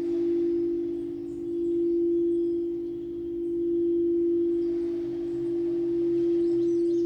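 Singing bowl sustaining one steady low tone with faint higher overtones, its loudness swelling and fading slowly in a wavering pulse about every two seconds.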